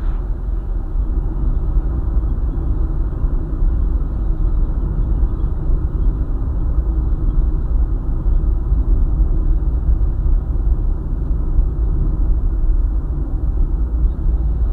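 A car travelling along a highway: a steady, even rumble of road and engine noise, mostly low-pitched, with no distinct events.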